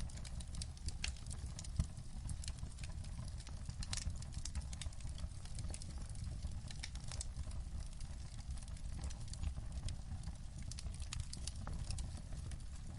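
Wood fire crackling in a fireplace: irregular sharp pops and snaps over a low steady rumble, with one louder pop about two seconds in.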